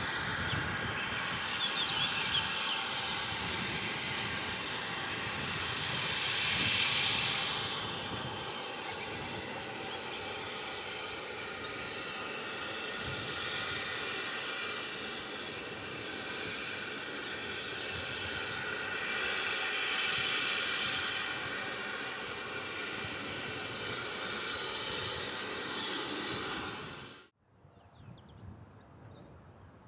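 Train running past, a steady mechanical running noise that swells and fades twice, cut off abruptly near the end.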